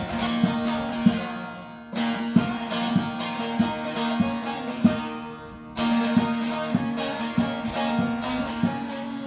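Instrumental passage on a plucked string instrument, strummed in a steady rhythm of about three strokes every two seconds over a held note, easing off briefly twice.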